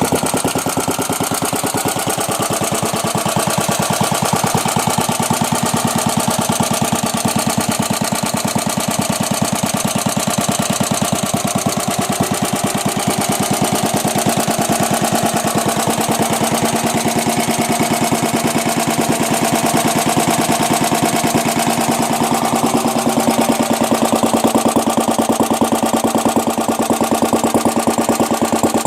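Bernard W110 bis single-cylinder stationary petrol engine running steadily, with a rapid, even beat of firing strokes that gets a little louder near the end.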